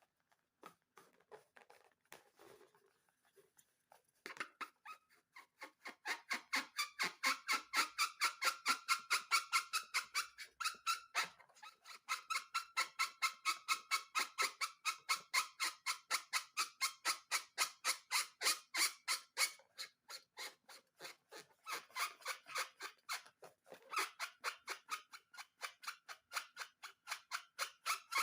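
Slime being squeezed and worked by hand, a fast run of short squishing strokes at about five a second. It starts about four seconds in and becomes weaker in the last third.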